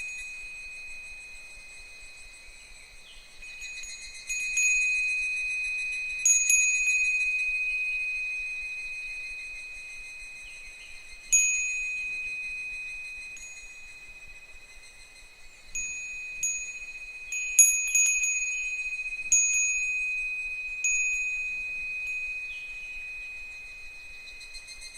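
Japanese wind chime (fūrin) swung by the breeze, its clapper striking at irregular intervals and each bright ring fading slowly, with a quick run of strikes past the middle. Insects trill steadily underneath.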